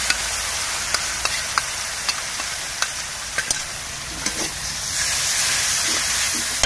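Spice paste and sliced onions sizzling in hot oil in a large metal wok, with a metal spatula scraping and clicking against the pan many times as they are stirred.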